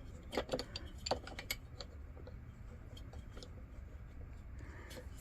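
A hand tool clicking and tapping on the metal fittings of a Coleman lantern: a quick run of light clicks in the first couple of seconds, then a few fainter ones.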